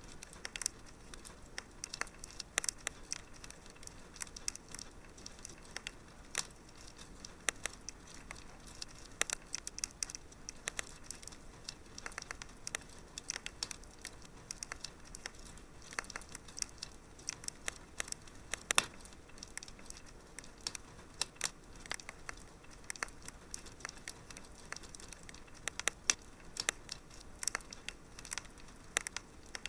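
Wood fire crackling in a fireplace: irregular sharp pops and snaps over a soft steady hiss, with one louder pop a little past halfway.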